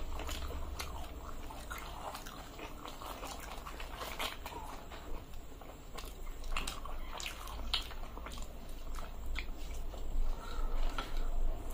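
Close-miked eating of luchi and ghugni: irregular chewing and mouth sounds with scattered small clicks, over a low steady hum.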